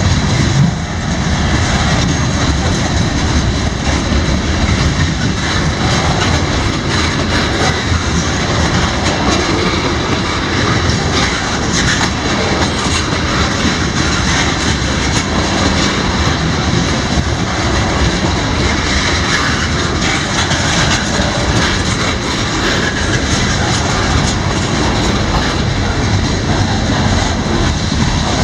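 CSX autorack freight train passing, a loud steady rumble of train noise with no breaks.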